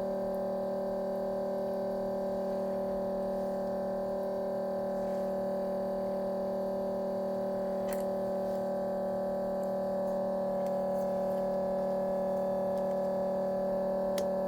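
Steady electrical hum of a running appliance, several fixed tones holding at an even level, with a couple of faint light clicks.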